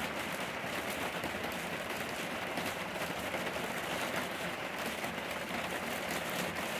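Steady rain falling, an even rushing hiss with no distinct drops or thunder.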